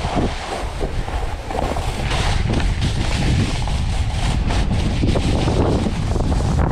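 Wind rushing over the microphone of a mouth-mounted GoPro and a snowboard sliding fast over snow, building a little about two seconds in.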